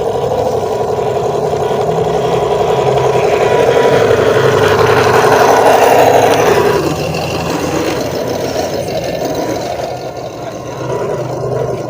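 Small remote-control off-road truck's electric motor and gears whining, swelling louder up to about six seconds in, then easing off.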